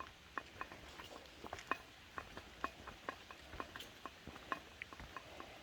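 Faint, irregular clicks and ticks, a few a second, over a low hiss.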